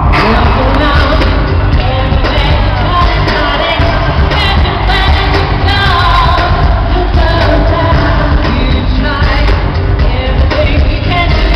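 Live pop concert sound: a female lead vocal sung over a loud, bass-heavy band and backing track, amplified through an arena PA.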